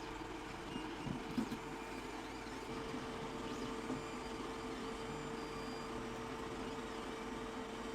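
Steady low machine hum with a faint steady tone, and a few light clicks in the first second and a half.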